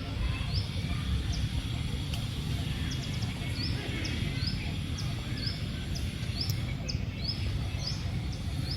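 A bird calling repeatedly, a short high rising chirp about twice a second, over a steady low rumble of outdoor noise.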